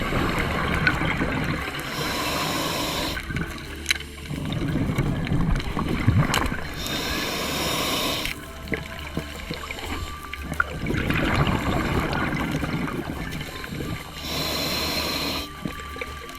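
Scuba diver breathing through a regulator: short hissing inhalations every five to seven seconds, each followed by a longer gurgle of exhaled bubbles.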